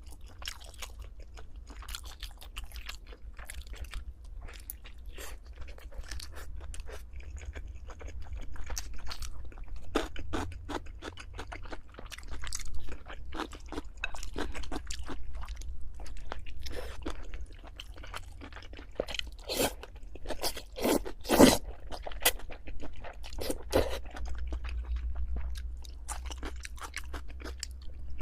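Close-miked eating: a person chewing and crunching food with a mouth full, in many quick irregular clicks, loudest about 20 seconds in.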